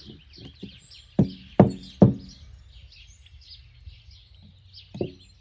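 Metal knocking and clanking, likely tools or parts being handled: three loud ringing clanks less than half a second apart about a second in, a few lighter knocks around them, and another clank near the end. Birds chirp steadily in the background.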